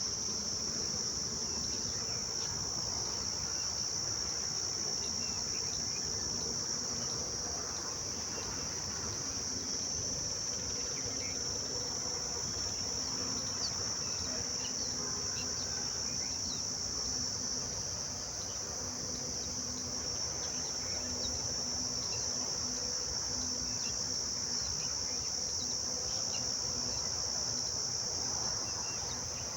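Steady, unbroken high-pitched insect chorus, with a faint low hum beneath it.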